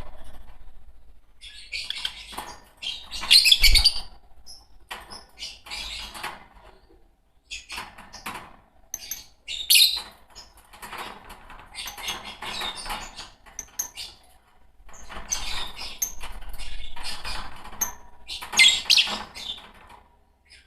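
A pair of Fischer's lovebirds chattering and chirping in bursts of shrill, high calls, with brief pauses between bursts.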